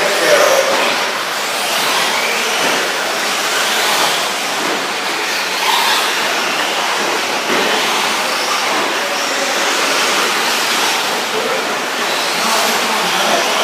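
Electric 1/10-scale 4WD short course RC trucks racing on a dirt track: a steady wash of motor whine and tyre noise, with faint rising and falling whines as the trucks speed up and slow down.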